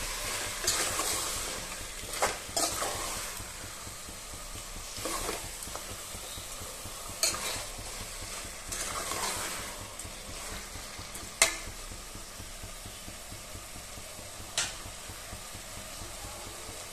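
Chicken masala sizzling in an aluminium pressure cooker while a steel spoon stirs and scrapes through it, with four sharp clinks of the spoon against the pot, the loudest a little past halfway.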